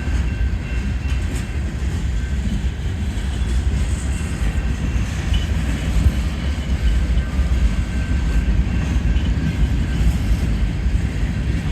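Freight cars of a long manifest train rolling slowly past, a steady low rumble of steel wheels on the rails.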